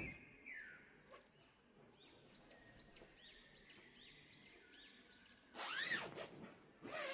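Birds calling: a run of short, repeated chirps, about two a second, followed near the end by a louder, falling call and a lower, wavering one.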